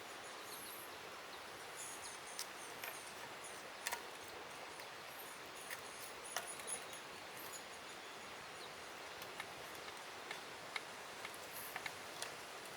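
Quiet forest ambience: a steady soft hiss with faint, high bird chirps and scattered small clicks and taps.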